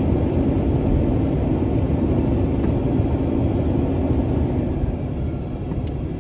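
Steady car engine and road rumble heard while driving, easing slightly near the end.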